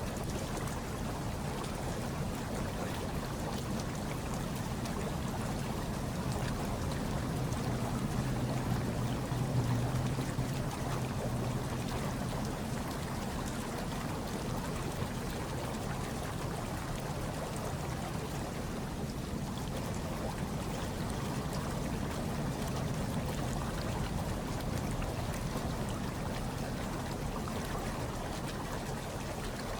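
Hot tub water bubbling and churning steadily, with a low rumble underneath that swells slightly about ten seconds in.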